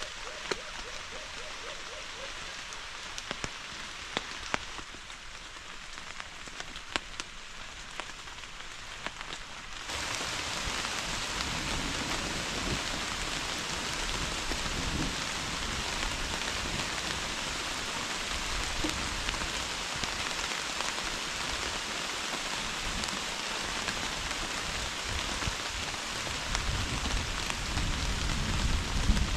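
Rain falling steadily, at first lighter with separate drops ticking. About a third of the way in it turns suddenly louder and denser, a heavy downpour hiss, with a low rumble swelling near the end.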